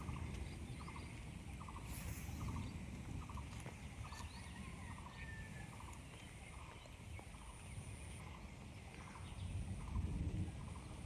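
A faint animal call repeated in short, evenly spaced notes, about two a second, over a low rural background rumble.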